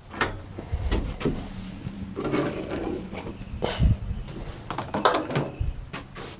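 Gear being moved off wooden shelves: a string of irregular knocks, clunks and short scrapes as items are lifted and set down.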